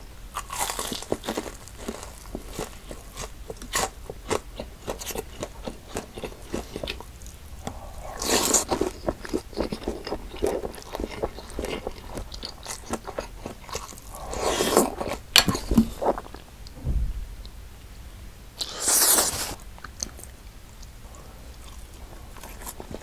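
Close-miked chewing and crunching of deep-fried Korean snack food (twigim), with many small crackly clicks and three louder crunchy spells spread through.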